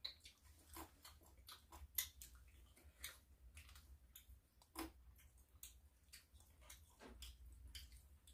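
Faint eating sounds: soft, wet chewing and lip smacks with scattered light clicks. The sharpest come right at the start and about two, three and five seconds in.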